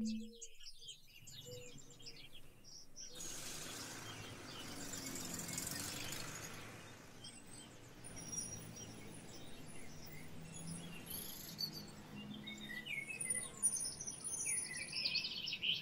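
Birds chirping and twittering over a low outdoor background hiss, with a swell of noise from about three seconds in and a busier run of chirps near the end.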